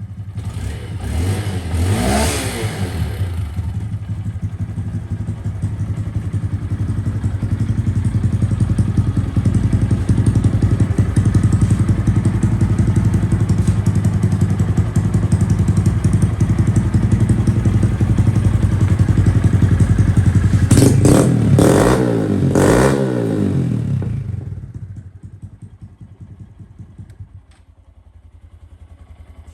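Honda Grom motorcycle's 125 cc single-cylinder engine idling through its exhaust, blipped once about two seconds in and twice in quick succession near the end. It then cuts off and runs down to quiet.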